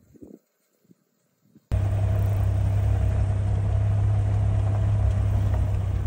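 A few faint soft knocks, then about two seconds in a loud, steady low rumble with a faint steady hum starts suddenly and carries on.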